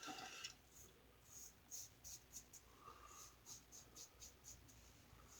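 Faint, quick rubbing or brushing strokes, a few a second, in a quiet small room.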